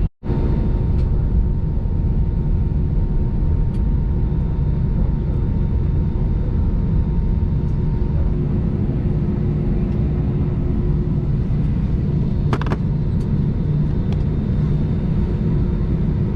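Airbus A320 cabin noise while taxiing to the gate: a steady low rumble of the idling jet engines and air, with faint steady whine tones and a single brief click about twelve seconds in.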